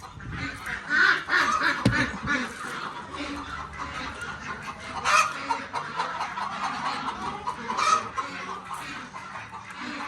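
A flock of chickens clucking and squawking, many calls overlapping, with louder squawks about a second in, around five seconds and near eight seconds.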